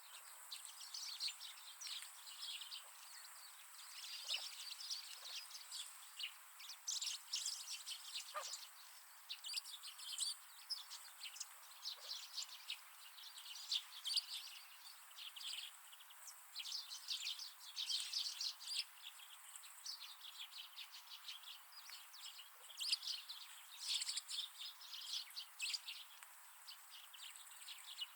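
Wild winter birds chirping and calling almost without pause, many short, high calls overlapping one another.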